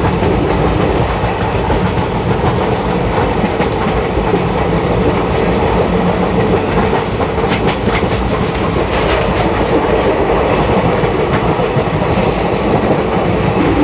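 Moving passenger train heard from inside a carriage: a steady rumble of the running gear, with faint clicks of the wheels over the rail joints in the middle.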